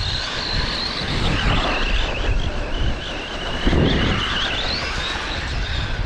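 Brushless electric motor of an Arrma Granite BLX RC truck whining as it drives through deep snow, its pitch wavering up and down with the throttle. Wind buffets the microphone underneath, with a brief louder surge about four seconds in.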